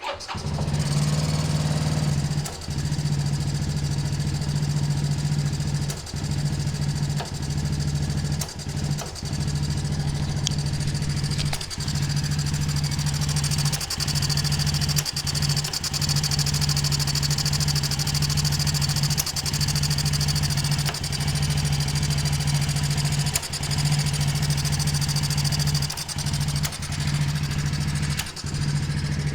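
Daelim Citi Best CB115 single-cylinder four-stroke engine starting and running at idle, unevenly, with brief drops in level at irregular intervals. The unstable running is the sign of a throttle body missing its adjusting screw.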